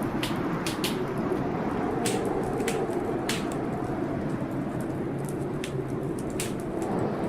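Fireplace wood fire crackling, with scattered sharp pops at irregular intervals, over the steady rushing noise of a storm.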